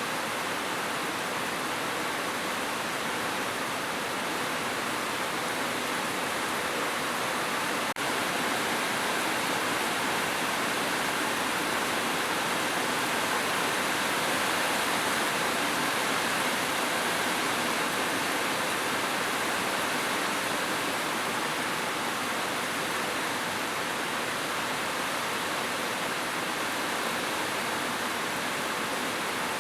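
Heavy rain falling steadily on a roof, an even unbroken hiss. There is a brief click about eight seconds in.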